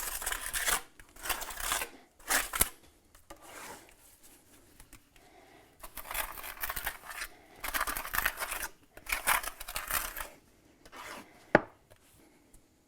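Steel mason's trowel scraping and working wet mortar, in a series of rasping strokes of about a second each, with a sharp tap near the end.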